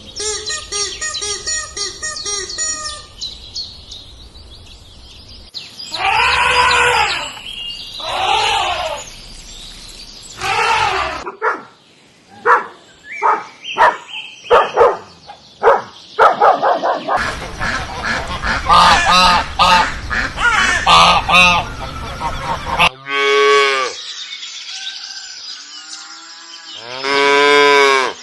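Calls of several different farm and domestic animals, cut one after another as separate short recordings and changing every few seconds: honking and quacking-type fowl calls, runs of short sharp calls, and long drawn-out calls.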